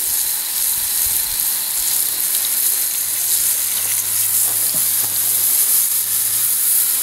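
Steady hiss of water spraying onto an old post drill press, rinsing off engine degreaser.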